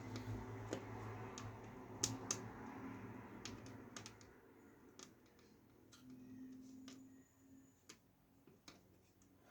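Faint, irregular light clicks and taps of small hardware being handled and fitted into a computer case.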